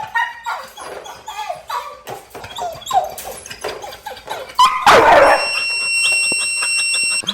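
A dog yipping, barking and whining in quick short calls for the first four or so seconds. A loud noisy burst comes just before five seconds in, followed by a steady high-pitched tone.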